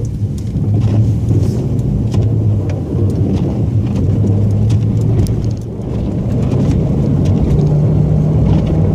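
Snowplow truck running on the road, a steady engine hum whose pitch steps up a little about seven and a half seconds in, with scattered light clicks and rattles.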